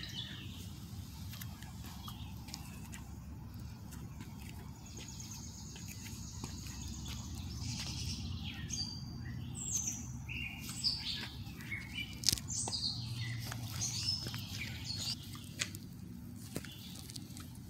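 Birds chirping in short, high calls, clustered in the middle of the stretch, over a steady low outdoor rumble, with a few faint clicks.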